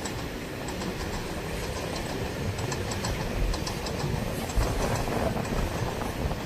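A train running along the track, its wheels rumbling on the rails with scattered sharp clicks and an occasional low knock.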